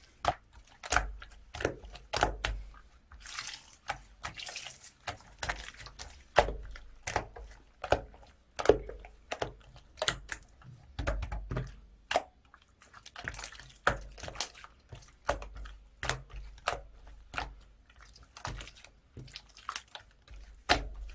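Clay-mixed slime being squeezed, poked and pressed by hand, giving a run of wet clicks and pops, about two to three a second, with a short stretch of soft crackling a few seconds in.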